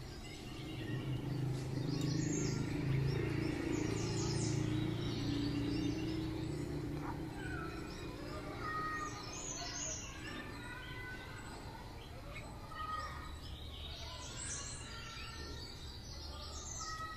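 Birds chirping in short, brief calls. A low droning hum is loudest in the first several seconds and fades out about halfway through.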